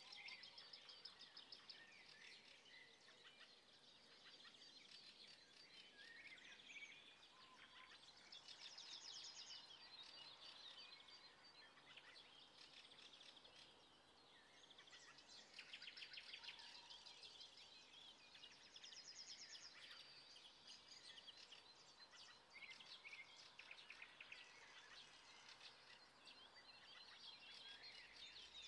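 Faint birdsong from several small birds: repeated chirps and rapid trills over a quiet hiss.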